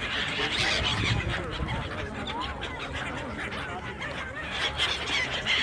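A flock of birds calling, many short overlapping honking calls at once.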